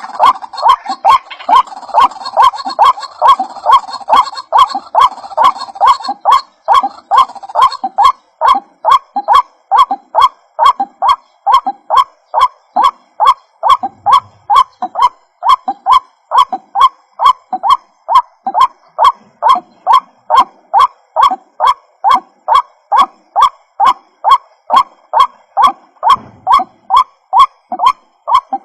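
White-breasted waterhen (ruak-ruak) calling: a long run of short, honking notes repeated about twice a second. In the first several seconds the notes overlap with a busier, higher chatter, then settle into a steady series of single notes.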